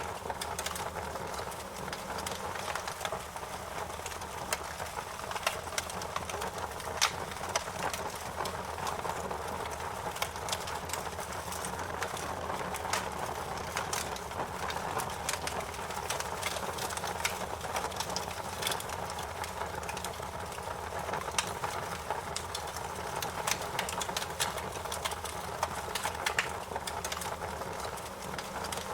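Wood fire crackling in a fireplace: a steady hiss of burning with many irregular sharp pops and snaps, one louder snap about seven seconds in.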